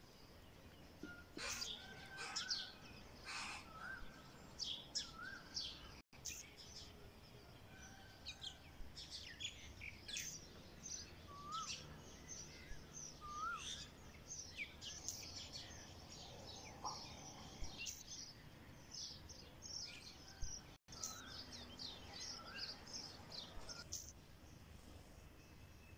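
Several birds chirping and calling outdoors: a busy run of short high chirps with a few lower whistled notes, over faint steady background noise. The sound drops out for an instant twice.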